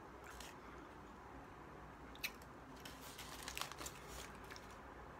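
Close-up mouth sounds of someone eating a chicken burrito: soft chewing with scattered wet clicks, a sharp click a little over two seconds in, and a quick run of clicks a little past the middle.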